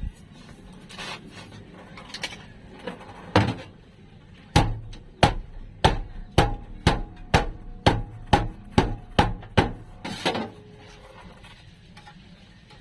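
A run of about a dozen hammer blows, roughly two a second, after a few lighter taps, with a faint ring after some strikes.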